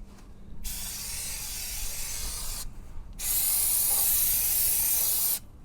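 Aerosol brake cleaner sprayed onto a brake rotor to clean it, in two hissing bursts of about two seconds each, the second louder.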